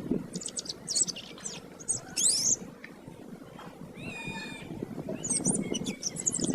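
Domestic canary singing: fast, high trills and twisting warbled phrases. About four seconds in there is one short, held, steady-pitched call with overtones, after which the rapid trilling resumes.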